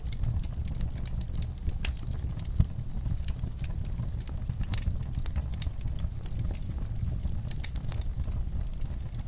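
Wood fire crackling in a fireplace: irregular small pops and snaps over a steady low rumble of the flames, with one sharper pop about two and a half seconds in.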